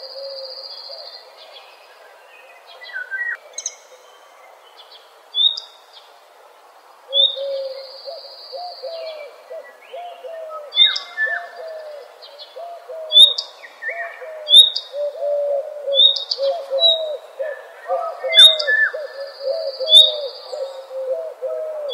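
Several birds calling together: a dense run of short low calls, sharp high chirps that come every second or so in the second half, and a few longer high trills. The calls are sparse for the first several seconds, then thicken.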